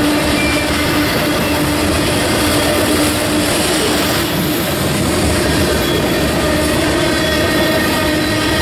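Loaded freight cars (covered hoppers, then tank cars) rolling past close by: a steady, loud rumble and rush of steel wheels on rail, with a few faint, thin steady tones running through it.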